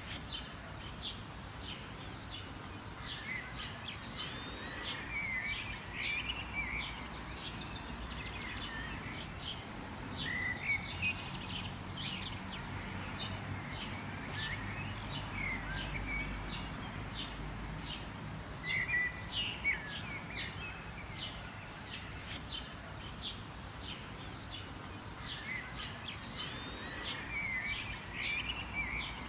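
Several birds chirping and twittering in quick short notes throughout, over a steady background hum.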